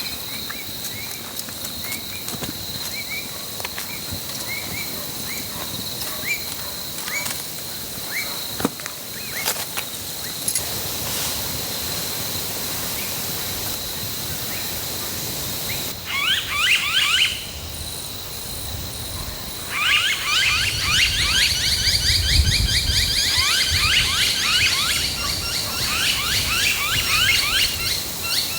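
Birds calling outdoors over a steady high insect drone. At first a single bird chirps at about two calls a second. After the middle, and again for most of the last third, loud rapid chattering bird calls take over.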